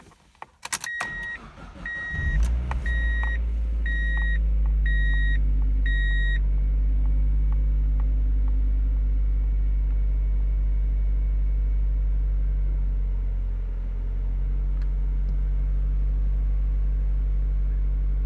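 2002 Mazda Miata NB's 1.8-litre four-cylinder started from cold, heard from the driver's seat. Key clicks, then a cabin warning chime beeps about once a second for several seconds while the starter cranks and the engine catches about two seconds in. It then idles steadily, with a brief dip in the idle about fourteen seconds in.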